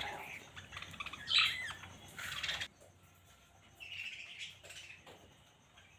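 Budgerigars chirping in short bursts, a few quick calls in the first half and softer chatter about four seconds in.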